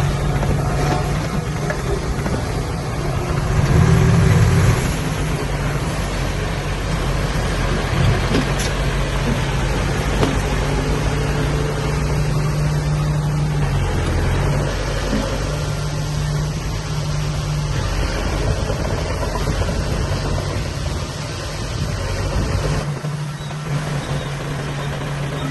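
Heavy diesel earthmoving machinery running steadily, the engine swelling louder for about a second around four seconds in.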